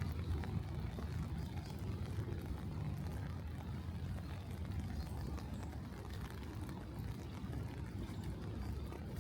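City street ambience in the rain: a steady low rumble of traffic, with scattered light taps.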